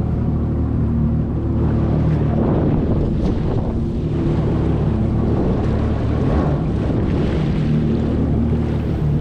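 Jet ski engine running steadily, with rushing water and wind on the microphone.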